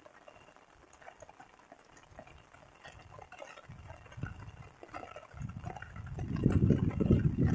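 Rain pattering and dripping as scattered small ticks. From about five seconds in, a low rumble swells and becomes the loudest sound.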